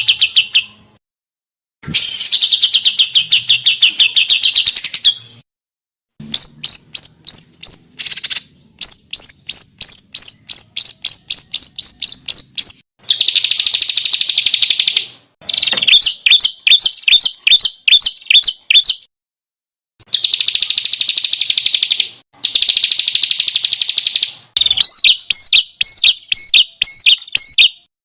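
Recorded songbird song in loud bursts of a few seconds each: fast, dense high trills alternating with stuttering runs of quickly repeated sharp notes, cut off abruptly between phrases.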